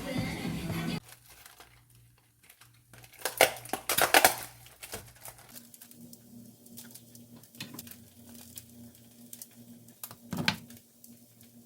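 Crinkling and rustling handling noises, with two loud bursts about three and four seconds in and another near the end, over a steady low hum. Background music cuts off about a second in.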